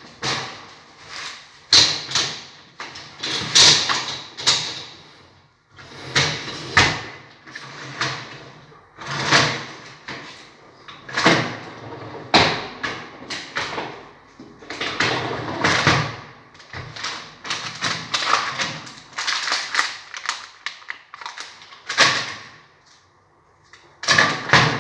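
Handling noises from unpacking and moving parts of a Bosch dishwasher: a string of irregular sliding, scraping and knocking sounds about a second or two apart, with a short pause near the end.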